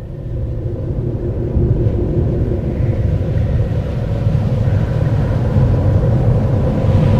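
A deep, steady rumble that grows gradually louder, with faint steady hum tones above it: the kind of low sky rumble reported as a 'strange sound from the sky'.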